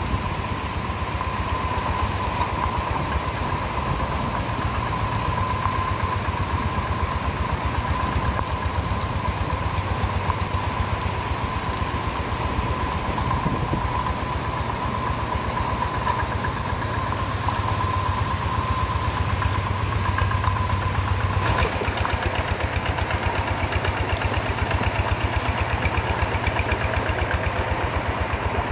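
Two-wheel hand tractor's single-cylinder diesel engine running steadily, with a fast, even firing beat. About three-quarters of the way through, the sound shifts and gains more hiss.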